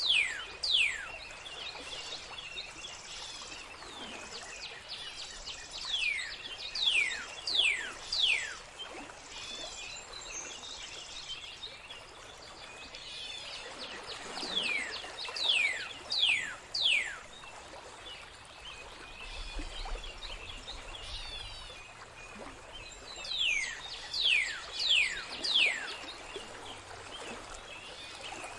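Songbird singing in repeated runs of quick, sharply falling whistles, three to five in a row about two a second, over a steady background of trickling, flowing water.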